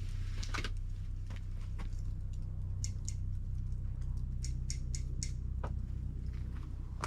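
Wood campfire crackling: irregular sharp pops and snaps, about ten in the span, over a steady low rumble.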